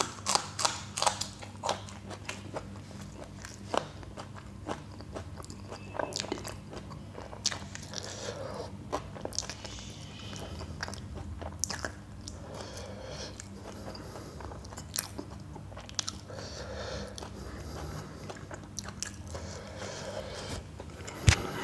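Close-up biting and chewing of a raw green chilli: a quick run of crisp crunches in the first two seconds, then slower, scattered crunching and wet mouth sounds. A single sharp click near the end is the loudest sound.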